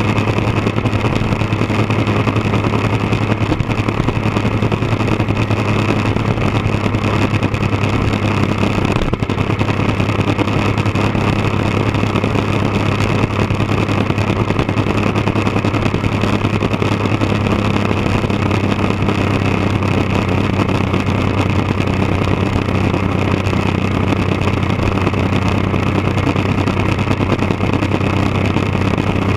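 1999 Triumph Daytona 955i's three-cylinder engine breathing through an aftermarket D&D exhaust, running steadily at one constant pitch with no revving.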